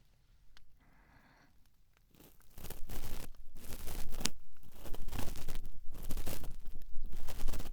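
Cotton swab rubbing and scraping in an ear, close to the microphone: a scratchy rustling that starts about two and a half seconds in and swells and fades unevenly.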